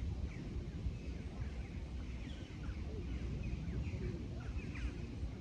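Small birds chirping, many short quick falling notes overlapping, over a steady low rumble.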